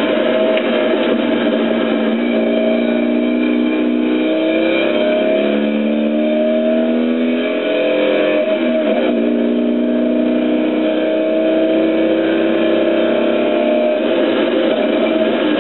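Car engine heard from inside the cabin under hard acceleration, its pitch climbing through a gear, dropping at a gear change about halfway through, then climbing again.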